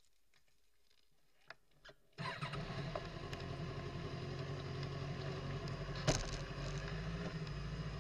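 Kawasaki ZX-6R inline-four motorcycle engine, fitted with a Scorpion aftermarket exhaust, starting up: a couple of faint clicks, then it fires about two seconds in and runs at a steady idle. There is one short sharp click about six seconds in.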